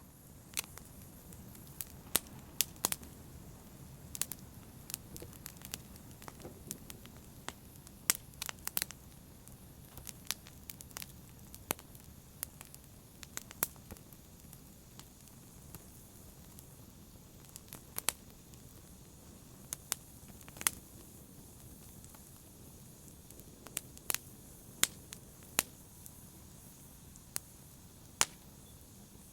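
Wood fire crackling in a fireplace: irregular sharp pops and snaps, a few louder cracks among many small ones, over a low, steady hiss of burning.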